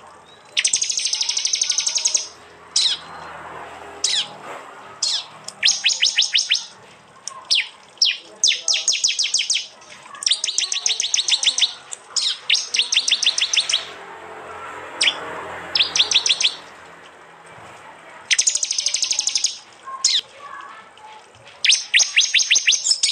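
Prenjak (prinia) song: loud, rapid dry trills of about one to two seconds each, repeated again and again with short sharp chips in between. These are the 'tembakan' burst calls.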